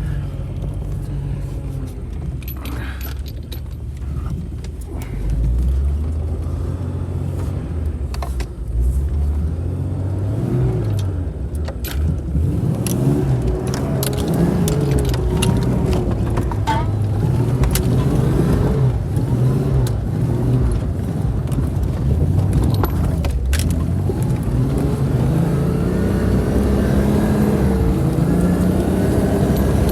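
Vehicle engine under way, its pitch rising and falling again and again as it is driven, revved and shifted, with scattered sharp clicks in the first half.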